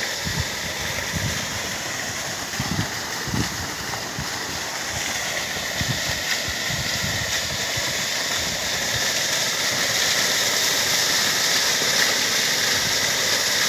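Forest waterfall rushing steadily, with irregular low rumbles in the first half, growing a little louder near the end.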